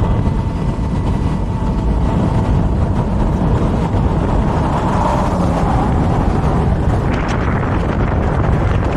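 Wind buffeting the camera microphone on a moving e-bike: a loud, steady low rumble. A faint high whine fades out after about two seconds.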